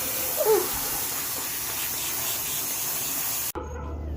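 Water spraying steadily from a bath tap or shower head, a continuous hiss that cuts off suddenly about three and a half seconds in.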